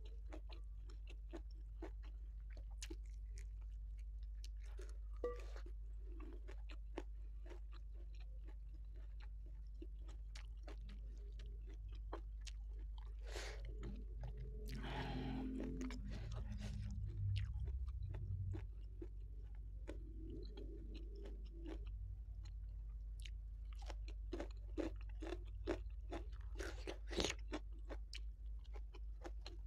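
Close-miked chewing of rice, salted fish and raw vegetables, with many small wet mouth clicks and crisp crunches from the raw side vegetables (lalapan).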